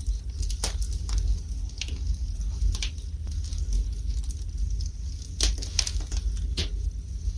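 Wood fire burning in a fireplace: irregular sharp crackles and pops, a few each second, over a low steady rumble.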